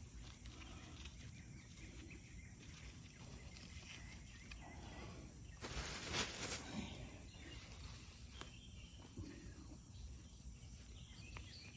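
Faint rustling and scraping of hands digging through soil and sweet potato vines in a grow bag, with a louder rustle about six seconds in.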